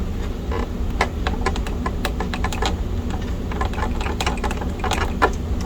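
Irregular small plastic clicks and taps as a laptop's keyboard connector and case parts are handled and worked loose, over a steady low hum.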